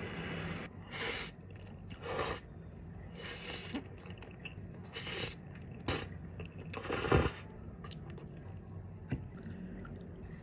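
Close-miked noodle eating: a series of short, separate mouth noises of chewing and slurping, about seven in all, with the loudest about seven seconds in.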